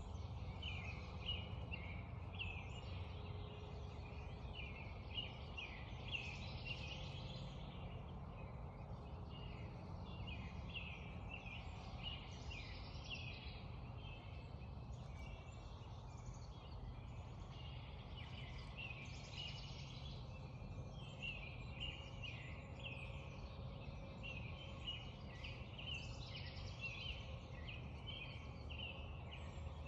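A dawn chorus of many songbirds, with overlapping chirps and trills continuing throughout, over a steady low background rumble.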